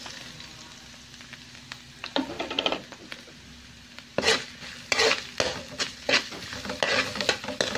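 Chopped garlic and red onion sizzling in oil in a wok. From about four seconds in, a spatula scrapes and stirs them against the pan in repeated strokes.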